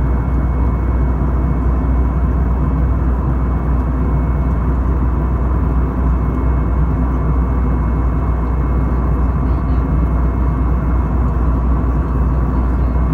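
Steady cabin noise of an Airbus A320-214 in flight, heard inside the passenger cabin: a deep, even rumble of its CFM56 engines and the airflow, with a faint steady whine above it.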